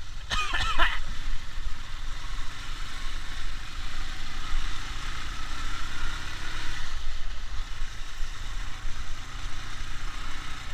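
Ural sidecar motorcycle's flat-twin engine running in mud, its revs climbing in the middle and dropping back near the end. A brief shout at the very start.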